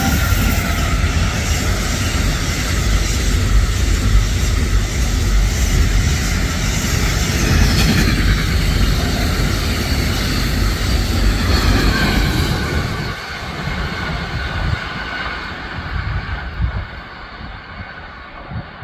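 A train passing close by the platform: a loud rumble of wheels on rails with whining tones from the train's drive over it. The sound stays strong for about thirteen seconds, then fades as the train moves away.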